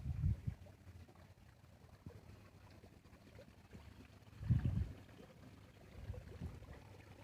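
Garden water fountain splashing and trickling steadily, faint, with two short low rumbles: one at the very start and one about four and a half seconds in.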